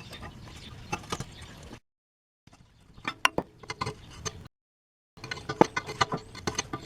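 Metal hand tools and engine parts clinking and clicking during engine repair work, in three short clips separated by abrupt cuts to dead silence.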